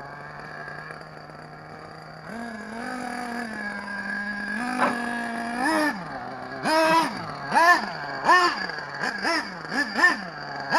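Novarossi 2.5 two-stroke nitro engine in a Traxxas Slayer RC truck idling steadily, then running a little faster for a few seconds. In the second half it is revved in a quick series of throttle blips, about seven, each pitch rising and dropping back.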